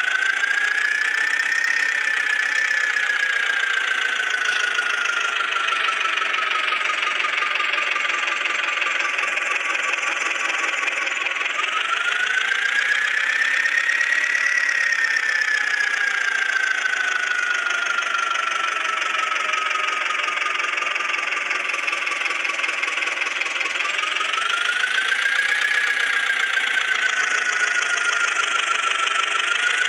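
Eicher tractor's diesel engine revving up three times: near the start, about 12 seconds in, and about 24 seconds in. Each time the pitch climbs quickly over a couple of seconds, then sags slowly over the next nine or ten.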